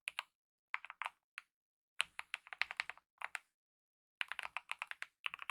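Typing on a mechanical keyboard with lubed optical red linear switches and DSA-profile keycaps. Keystrokes come in quick runs of clicks, broken by short pauses about half a second in, at around one and a half to two seconds, and from about three and a half to four seconds.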